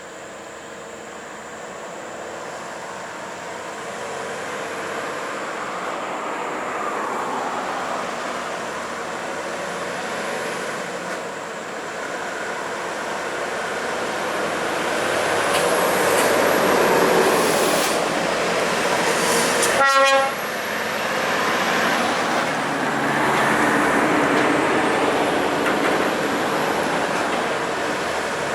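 Heavy trucks passing on a road, the tyre and engine noise swelling and fading twice, with one short horn blast about two-thirds of the way through.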